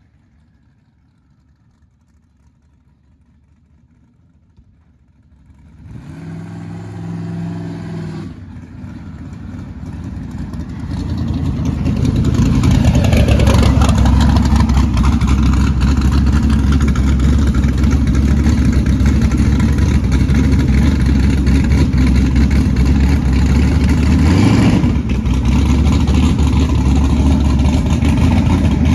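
Turbocharged LS V8 of a street pickup revving up after about six seconds of near quiet, easing off, then running loud under hard acceleration from about eleven seconds on, with a brief dip in the sound near the end.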